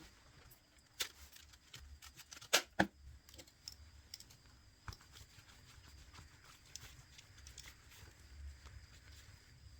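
Scattered small clicks and taps of hand tools and plastic phone parts being handled during a smartphone teardown, with two sharper taps close together a few seconds in.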